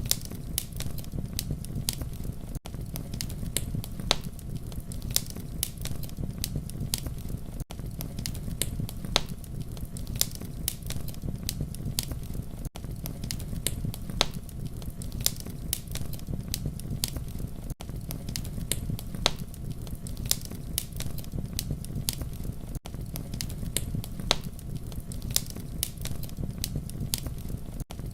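Campfire crackling: a steady low rumble of flames with frequent sharp pops and snaps, broken by a brief dropout about every five seconds.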